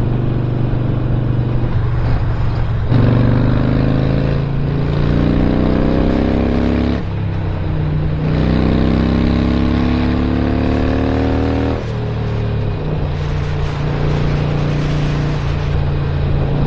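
A 2017 Harley-Davidson Sportster Roadster's 1200 cc V-twin with a Stage 1 upgrade, accelerating through the gears. The engine note climbs in pitch, drops at a shift about four and a half seconds in, climbs again, drops near seven and again near twelve seconds, then settles to a steady cruise.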